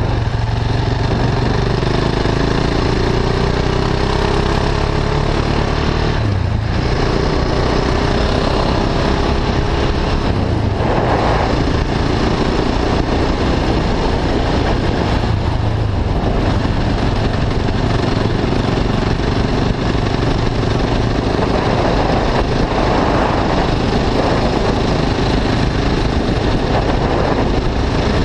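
KTM 690 Duke IV's single-cylinder engine running under way through an Akrapovic slip-on exhaust with a catalytic-converter bypass pipe. Its pitch rises and falls in the first few seconds, over a steady rush of wind.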